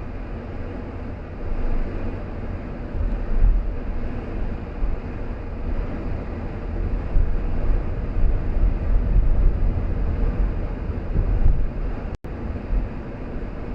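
Car driving: steady road and tyre noise with low, gusty wind buffeting on the microphone. The sound cuts out for a split second about twelve seconds in.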